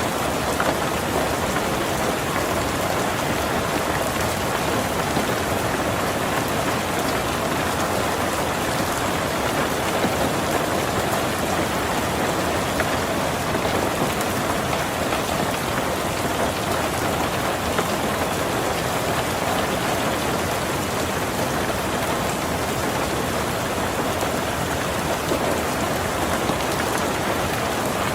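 Heavy rain falling steadily on a tin roof, a dense even patter with no let-up.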